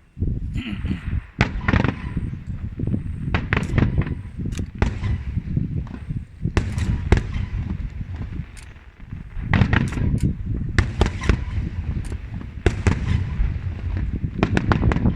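Aerial firework shells bursting in rapid succession: many sharp reports over a continuous low rumble, with a short lull a little past halfway before the bursts pick up again.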